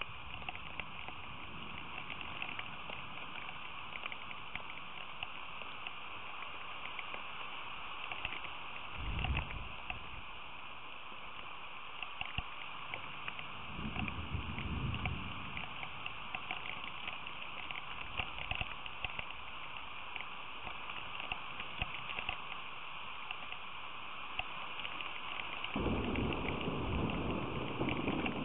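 Steady rain falling, with many fine drop ticks. Low rumbles of thunder come three times: briefly about nine seconds in, longer around fourteen seconds, and again near the end.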